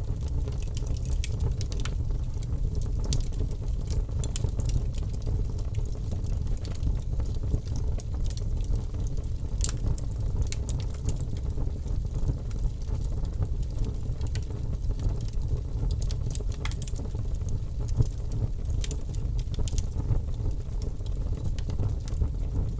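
Fire burning: a steady low rumble of flames with frequent scattered sharp crackles and pops.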